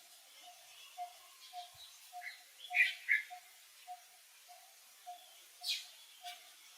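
Animal calls: a few short high chirps about two to three seconds in and a sharp falling squeal near the end, over a faint note that pulses about twice a second.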